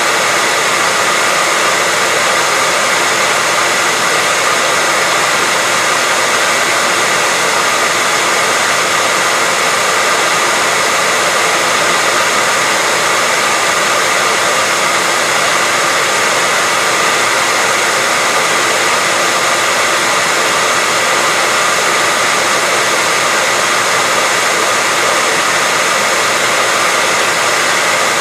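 Hair dryer running steadily: an even rushing air noise with a faint, steady high whine, unchanging in level.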